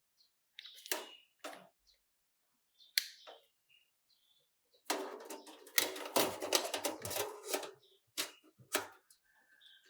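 Sharp clicks and clatter of small hard objects being handled. A few isolated clicks come first, then about three seconds of dense rattling and clicking in the middle, then two more clicks.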